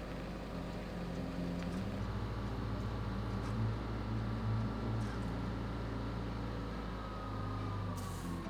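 A machine engine running steadily with a low hum, a faint whine in it slowly dropping in pitch near the end.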